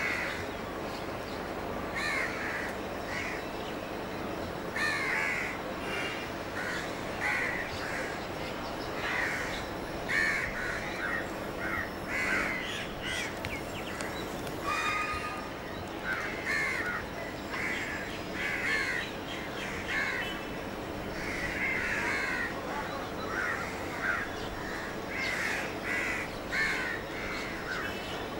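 A flock of birds calling, many short calls one or two a second, over a steady low background noise.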